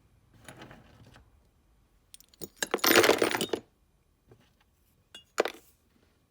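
Loose metal hand plane parts clinking and rattling as they are handled, with one louder rattle lasting about a second midway and a short clink near the end.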